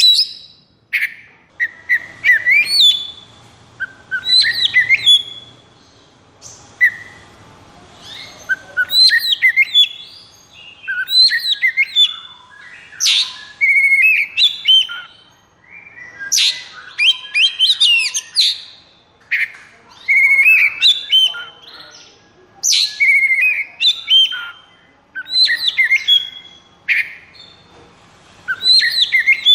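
Oriental magpie-robin (kacer) singing: phrase after phrase of clear whistles and quick rising and falling notes, each a second or two long with short gaps between.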